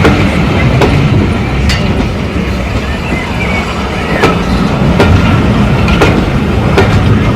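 Railway train running along jointed track: a steady low rumble with sharp clicks from the wheels crossing rail joints, roughly one a second.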